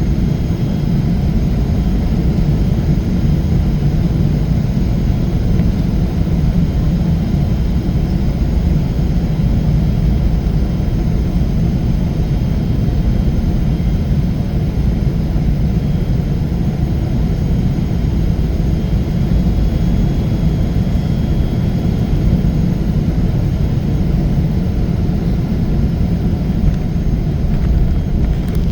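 Steady low rumble of a Boeing 777-300 jetliner's engines and airflow, heard inside the passenger cabin, with faint steady high-pitched whines over it.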